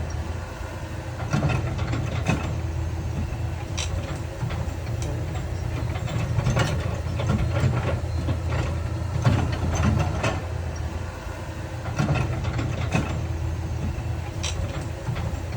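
Heavy diesel earthmoving machinery running steadily at a low drone, with irregular sharp knocks and clanks about a dozen times.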